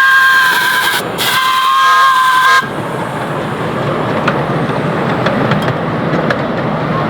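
Live steam miniature locomotive's whistle blowing two blasts of a several-note chord, the second ending abruptly about two and a half seconds in. After the whistle, the train runs along the track with a rumble and scattered clicks.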